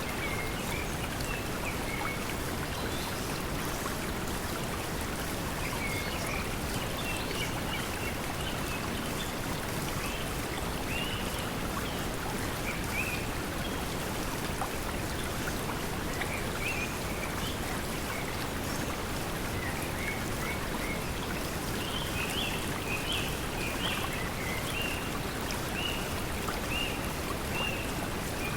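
Steady pink noise blended with flowing stream water, with short high bird chirps scattered through it that grow more frequent near the end.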